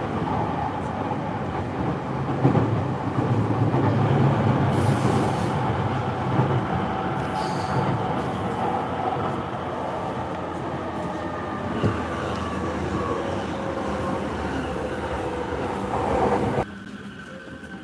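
Commuter train running, heard from inside the passenger car: a steady rumble of wheels on rail, heaviest a few seconds in, with faint whining tones rising and falling. The noise drops abruptly to a lower level near the end.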